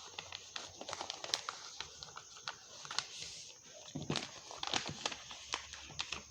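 A sheet of paper being folded and creased by hand: irregular crisp crackles and taps as the folds are pressed down.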